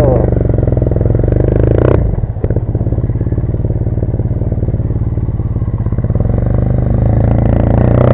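Triumph Bonneville's parallel-twin engine running under way. It dips briefly about two seconds in, then runs steadily and slowly grows louder.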